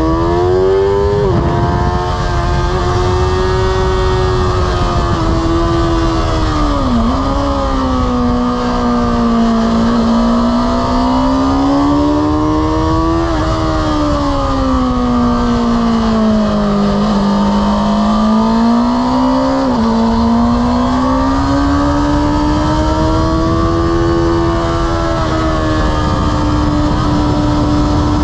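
Honda sport bike's engine at full effort, heard onboard, its pitch rising and falling with the throttle and dropping sharply several times at gear changes, over steady wind rush.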